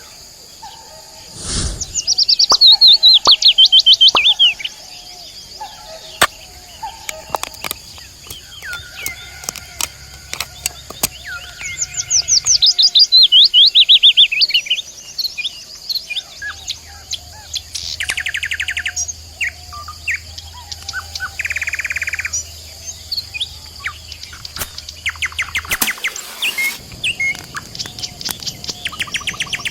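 Songbirds singing: twice a loud, rapid trill of chirps falls steeply in pitch, once a couple of seconds in and again about halfway, with shorter chirping phrases between and after. Under it runs a steady high hiss, with scattered small clicks.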